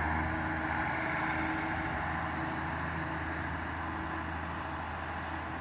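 Heavy diesel truck engine running steadily at idle, a constant low hum.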